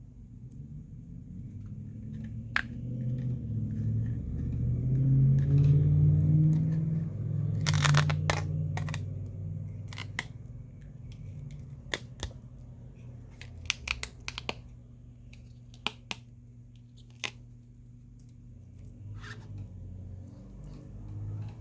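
Old adhesive strip being peeled and scraped off a smartphone's frame, with scattered sharp clicks of tools and parts against the phone. A low rumble of handling noise swells in the first half.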